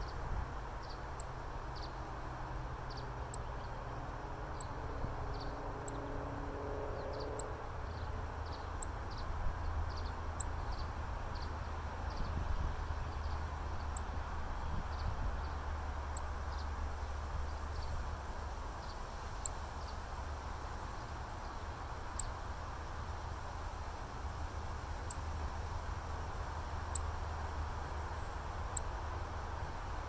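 Short, sharp, high bird chips every second or two over a steady low rumble.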